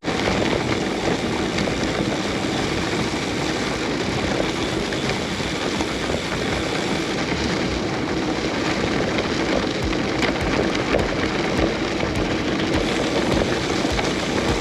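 Steady rush of wind on the microphone with tyre rumble from a bicycle rolling along a gravel road.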